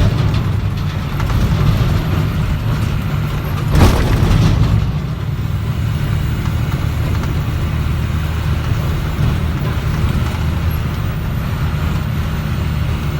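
International dump truck running steadily along a rough gravel road, its engine drone low and constant, with scattered knocks and one loud jolt about four seconds in as the truck hits a bump.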